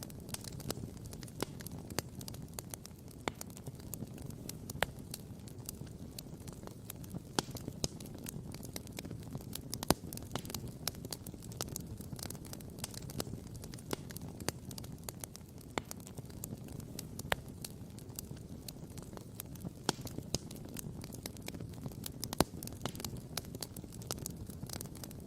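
Wood campfire crackling and popping: many small irregular crackles with occasional sharper pops, the loudest about ten seconds in, over a low steady rush.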